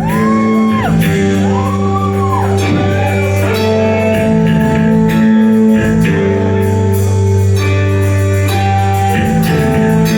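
Live rock band playing: electric guitars holding chords over bass and drums, with a few cymbal crashes and a bending pitch glide early on.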